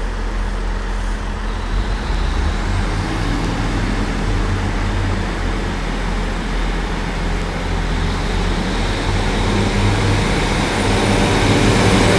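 Diesel engines of a Great Western Railway Class 150/143 diesel multiple unit running as the train pulls away from the platform. A steady low drone grows louder toward the end, and a thin high whine rises about two seconds in.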